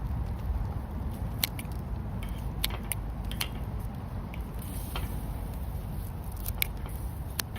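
Wood campfire crackling, with a handful of sharp, scattered pops over a steady low rush of the fire.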